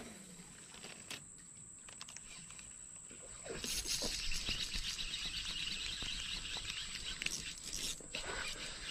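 Insects buzzing and chirping outdoors: a dense, high-pitched shrill comes in about three and a half seconds in, over a thin steady high tone, with a few faint clicks before it.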